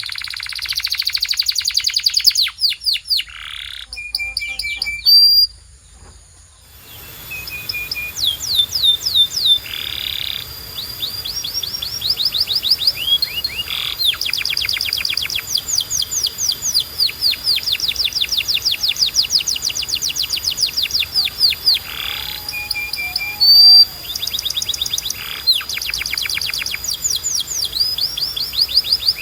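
Domestic canary singing long, fast trills of rapidly repeated high, sweeping notes, with changes of phrase throughout. There is a short break in the song about six seconds in.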